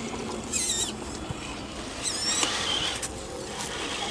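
Tiny RC crawler truck's small electric motor whining in two short high-pitched bursts, about half a second and two seconds in, its pitch sliding up and down as the throttle is worked.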